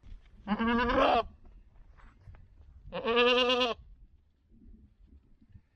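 A domestic goat bleating twice, two loud wavering calls each under a second long, about two and a half seconds apart.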